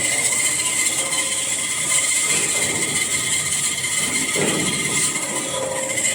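Kitchen towel tissue converting machine running at speed: a steady, loud mechanical noise with a constant high whine. It cuts in suddenly at the start.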